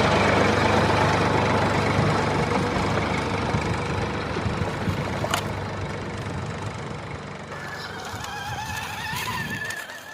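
A tractor engine running steadily and growing fainter. Wavering high-pitched tones join it in the last couple of seconds.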